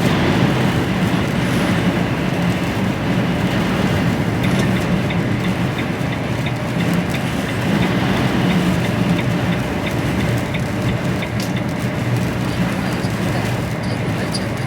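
Steady engine and road noise of an HGV truck, heard from inside the cab while driving. A faint, evenly spaced ticking sits over it for a few seconds near the middle.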